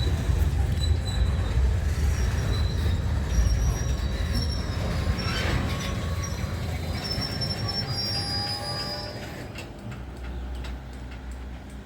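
Freight cars rolling slowly past with a low rumble of wheels on rail and thin, high wheel squeal. The rumble drops off near the end.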